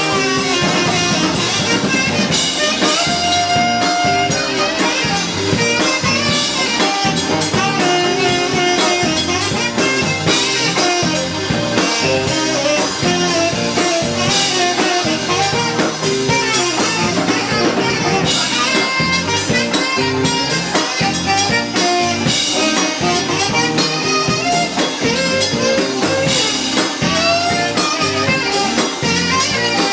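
Live blues band playing an instrumental passage, with horns and a drum kit carrying a steady beat.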